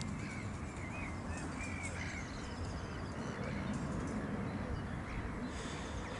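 Birds calling in short, separate calls over the first couple of seconds, over a steady low rumble.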